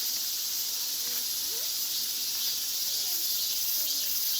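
Dense chorus of many cicadas: a steady, high-pitched buzzing that does not let up.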